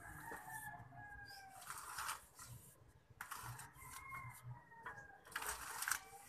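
A bird calls twice: a pitched call of about a second and a half at the start, and a shorter one around four seconds in. Between and after the calls come bursts of scratchy rustling from hands working potting soil in a bonsai pot, the loudest near the end.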